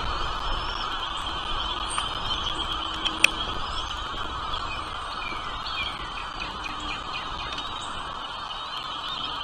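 Small birds giving short, scattered high chirps over a steady background hum, with one sharp click about three seconds in.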